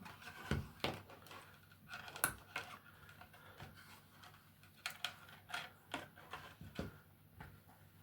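Faint, scattered clicks and taps of small hard plastic parts being handled and set down on a work surface.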